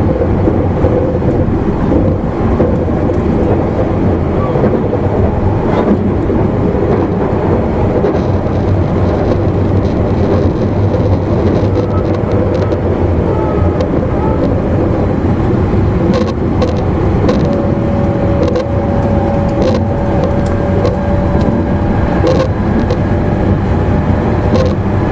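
Running noise inside an E259 series Narita Express motor car: a steady rumble of wheels on rails with scattered light clicks. A steady whine joins about two-thirds of the way in.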